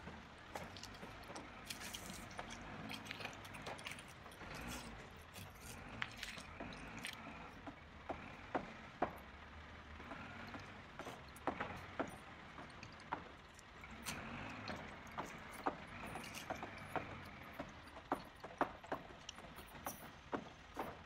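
Toy construction trucks handled and moved through loose dirt: irregular clicks and clatter of small parts knocking together over a faint scraping rustle.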